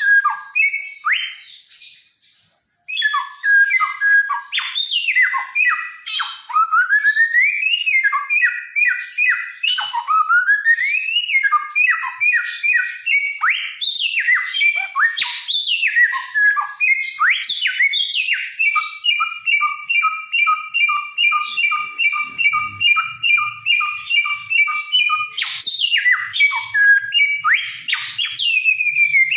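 Samyong, a mimicking songbird endemic to Nusa Tenggara, singing loudly and continuously in a varied run of whistles, rising sweeps and harsh notes. It falls silent briefly about two seconds in. Past the middle comes a long, fast run of one two-note phrase repeated many times.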